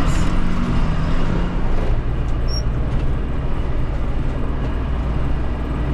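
Tractor engine running steadily as the tractor drives along, a constant low drone.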